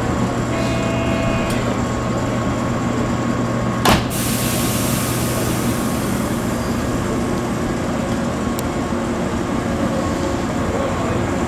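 A 413-series electric train stands at the platform with its equipment humming steadily, ready to depart. Under a second in, a brief faint beeping tone sounds. About four seconds in there is a single sharp clack and then a hiss of air that fades away.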